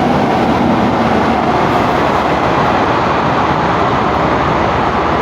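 A train passing close by: a loud, steady noise of rail traffic that holds level and is louder than the lecturer's voice.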